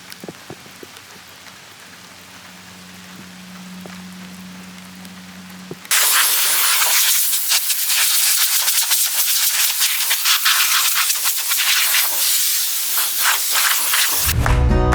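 Heavy rain pouring down, a loud, dense hiss of spattering drops that starts suddenly about six seconds in. Before it there is a fainter hiss with a steady low hum.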